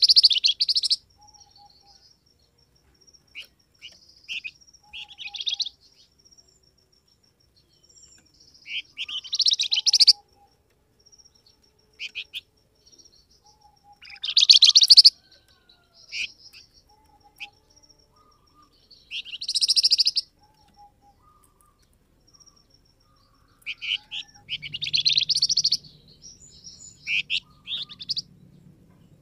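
Recorded song of the bird known in Indonesia as the flamboyan, used as a lure call: loud bursts of rapid, high chirping trills every four to five seconds, with short single chirps between them.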